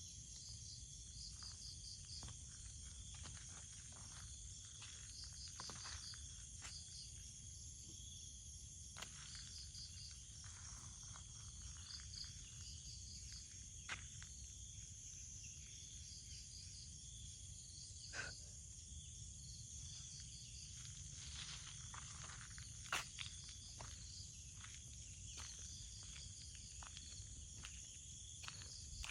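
Insects, crickets or similar, chirring in a steady high-pitched drone, with short pulsed trills repeating every second or two. Scattered faint clicks and rustles sound throughout, one louder near the end.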